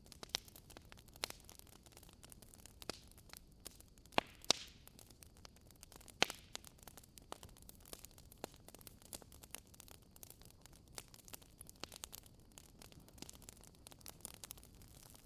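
Wood fire crackling: scattered small pops and clicks over a faint hiss, with a few louder pops about four and six seconds in.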